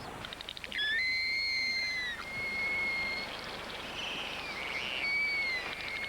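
A high, pure whistle-like tone held in long notes of a second or more, with small slides in pitch between them, after a quick run of short clicks about half a second in, over a faint steady hiss.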